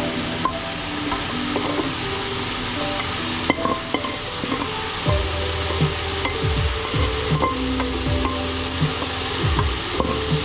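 Burrito filling frying and sizzling in a hot pan while a utensil stirs and scrapes it, with scattered knocks of the utensil against the pan.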